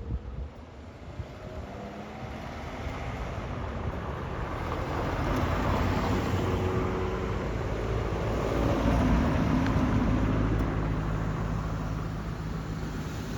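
A car engine driving by, growing louder to a peak about nine seconds in, then slowly fading.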